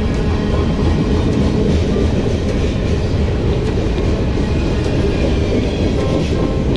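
A moving train's steady rolling rumble, with faint rail clatter and no pause.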